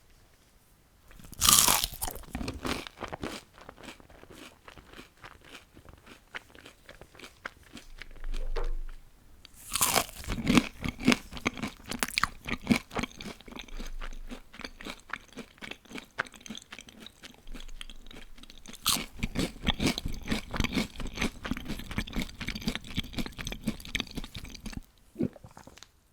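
Close-up eating sounds of crispy deep-fried food: three loud crunching bites, about one and a half, ten and nineteen seconds in, each followed by several seconds of crackly chewing.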